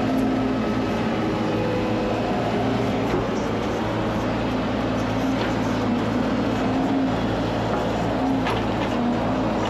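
Excavator diesel engine running steadily under load while digging out a large tree stump, with a few short knocks from the bucket working the ground.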